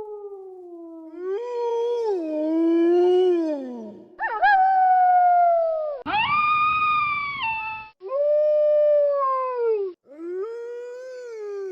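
Wolves howling: a run of long, drawn-out howls, sometimes two voices overlapping, each sliding in pitch and falling away at the end. Several howls start and stop abruptly, one after another.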